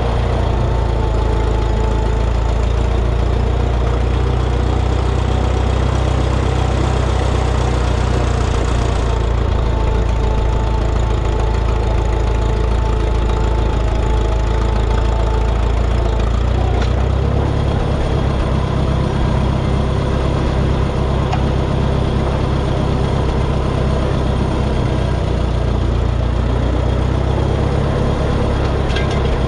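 Minneapolis Moline tractor engine running steadily. Its low drone shifts a little over halfway through.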